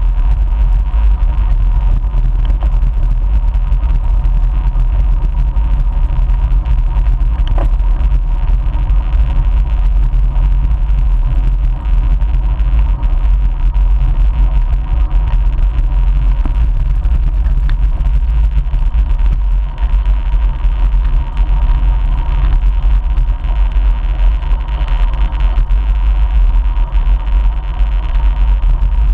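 Wind buffeting the microphone of a moving bike, a loud steady rumble, with a faint steady whine running under it.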